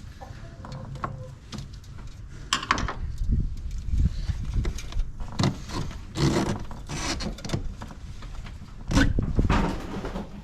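Irregular rubbing, scraping and clunking of parts being handled and fitted back in an engine bay, in a string of short bursts with gaps between them.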